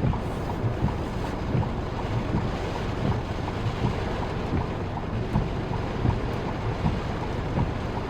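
Steady rumble of a car being driven, with wind buffeting the microphone in irregular low thumps.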